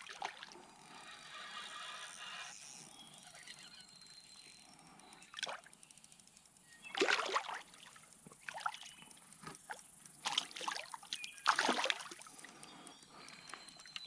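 Creek water splashing in several short bursts as a hooked smallmouth bass is landed, the loudest splashes about seven and eleven and a half seconds in, over the low trickle of the stream.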